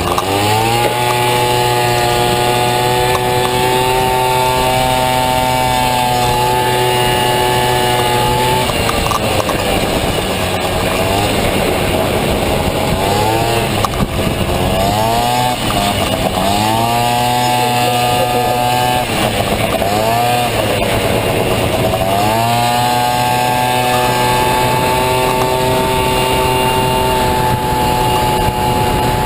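Honda Dio two-stroke single-cylinder scooter engine in a Honda Motocompo, run at full throttle. Its pitch climbs at the start and holds high and steady. About a third of the way in it eases off and picks up again several times in quick succession, then holds high once more near the end.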